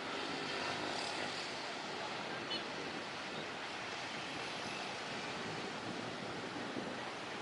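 Steady rushing roar of a jet airliner's engines, an AirAsia Airbus A320, with no distinct events.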